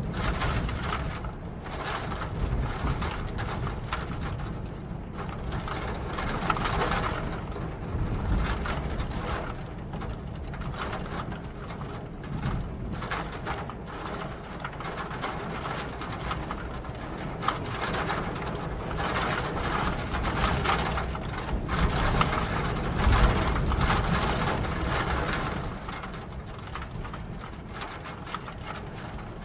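Rain falling, a dense irregular pattering of drops over a low rumble that swells and eases.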